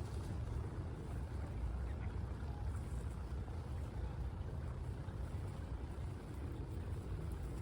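Steady low rumbling outdoor background noise, even and without distinct events.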